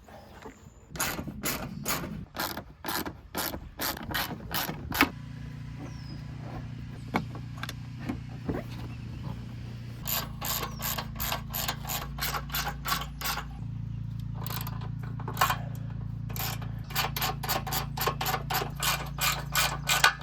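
Hand socket ratchet clicking in runs as bolts are worked loose, roughly two to three clicks a second, pausing between runs. A steady low hum sets in about five seconds in.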